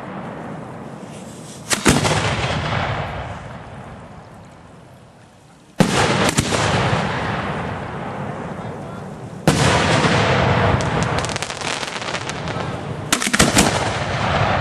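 Fireworks display shells going off: four loud bangs a few seconds apart, some with quick extra cracks after them, each trailing off into a long rolling rumble of echo.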